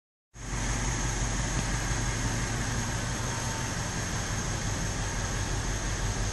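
BMW X5 4.8is's 4.8-litre V8 idling steadily, with a thin steady high tone running along with it.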